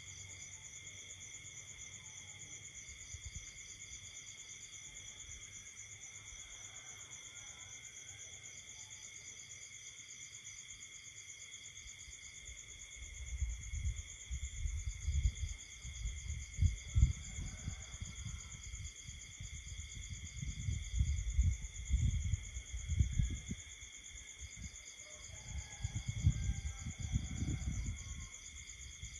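Night chorus of crickets and other insects: several steady, high, overlapping trills, with one higher pulsed trill switching on and off every few seconds. From about halfway through, irregular low rumbles come and go and are the loudest sound.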